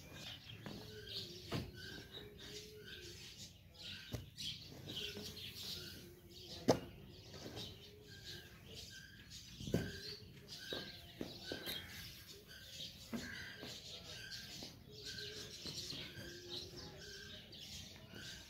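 Birds chirping over and over in short repeated calls, with a few sharp knocks, the loudest about six and a half and ten seconds in.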